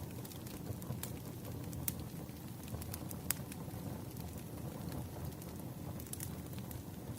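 Firewood burning, crackling with scattered sharp pops over a low steady rumble of flames.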